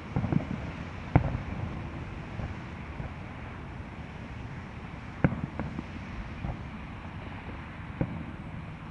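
Distant fireworks going off: a few separate sharp bangs, the loudest about a second in and again about five seconds in, with fainter ones between, over a steady outdoor rumble.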